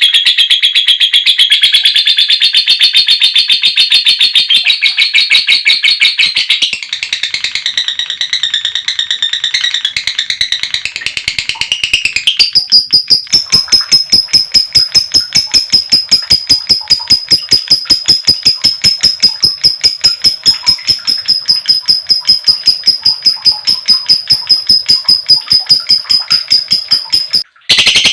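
Female lovebird's long 'ngekek' chatter: a shrill, rapid, unbroken run of repeated notes. About halfway through it changes to a thinner, higher, steadier-pitched trill, with a brief break just before the end.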